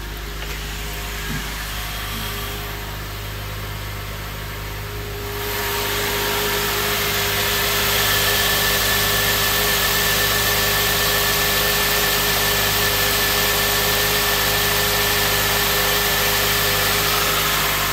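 2004 Honda Element's 2.4-litre i-VTEC DOHC four-cylinder engine running steadily at idle. It gets louder about five seconds in, then holds an even note.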